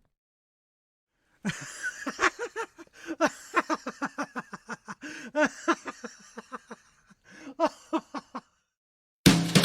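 A voice making a rapid run of short, pitched sounds, several a second, after about a second of silence. Music starts just before the end.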